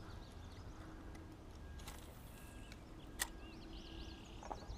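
Faint bird chirps over quiet open-air ambience, with a brief hiss just before two seconds in and one sharp click a little past three seconds.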